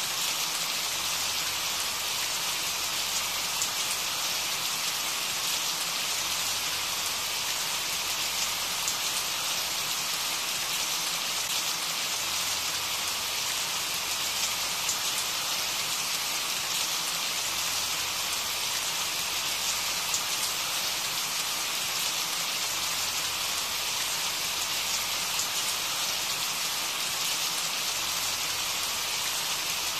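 Steady rain falling, an even hiss with fine drops pattering close by.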